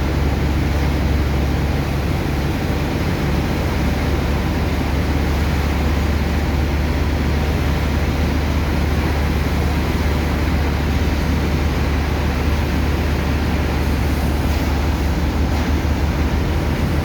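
Sand dredger's pump engine running at a steady low drone, over the even rush of water and sand being pumped.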